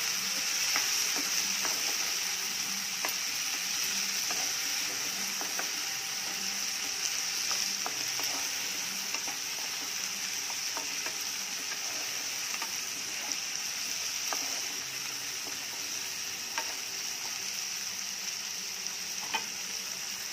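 Chopped tomatoes, onion, garlic and curry leaves sizzling steadily in oil in a nonstick frying pan, sautéing down until soft, while a wooden spatula stirs them with scattered light scrapes and taps.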